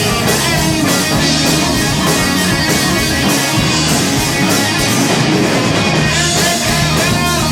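Rock band playing live, an instrumental stretch with electric guitar and drum kit and no singing.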